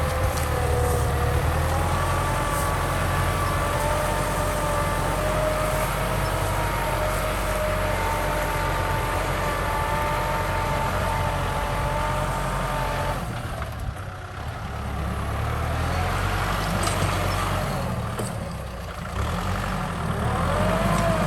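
Kubota M6040 tractor's diesel engine running steadily under load with a whine above it, the sound easing off briefly twice in the second half.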